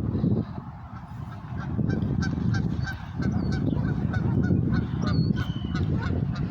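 Geese honking: a quick run of short, repeated honks, about three a second, for a few seconds in the middle.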